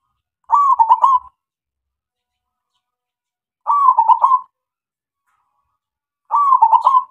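Male zebra dove (perkutut) singing its cooing song: three short rolling phrases of quick coos, about three seconds apart, the last cut off at the end.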